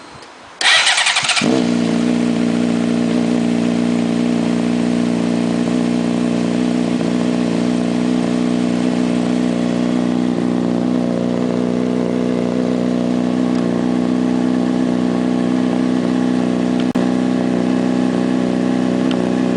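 2006 Honda CBR600RR inline-four with a Yoshimura RS-5 slip-on exhaust, cold-started: the starter cranks for under a second, then the engine catches and settles into a steady idle. The idle cuts off suddenly near the end.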